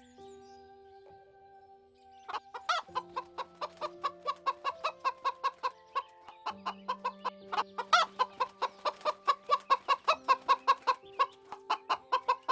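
Chicken clucking in a fast, even run of short clucks, about four a second, starting about two seconds in. Soft background music with long held notes plays underneath.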